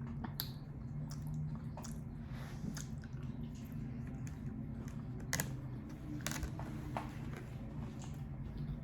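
Close-miked chewing of sushi: soft wet mouth sounds with scattered small clicks, over a steady low hum.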